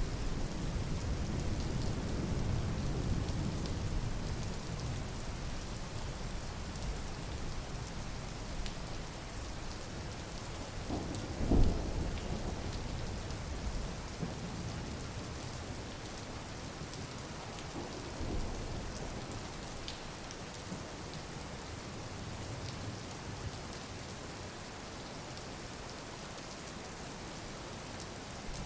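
Steady rain falling, an even hiss throughout, with a low rumble in the first few seconds that fades. A single short thump stands out about eleven seconds in.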